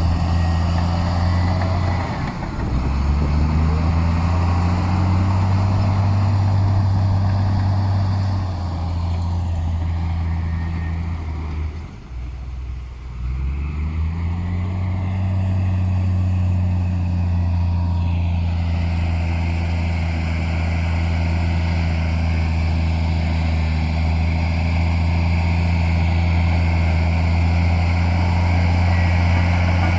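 Heavy diesel engine of earthmoving machinery running steadily. Its note dips and climbs back a couple of seconds in, then drops away briefly about twelve seconds in before picking back up.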